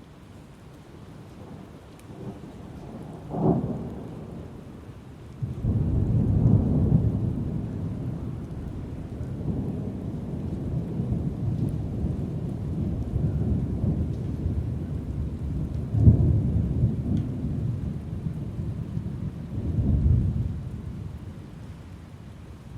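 Thunderstorm: steady rain with rolling thunder. A sharp clap comes a few seconds in, a long deep rumble follows, and two more peaks of thunder come later before it dies back to rain.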